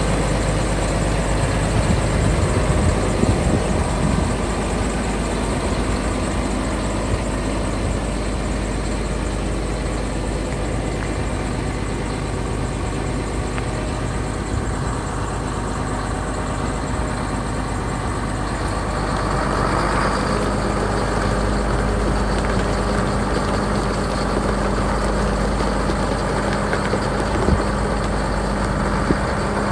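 2011 Massey Ferguson 8680 Dyna-VT tractor's six-cylinder diesel engine running steadily at idle.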